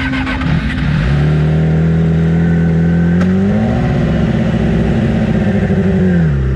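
Sport bike engine running at a steady note, rising to a higher steady pitch about three and a half seconds in and dropping back near the end.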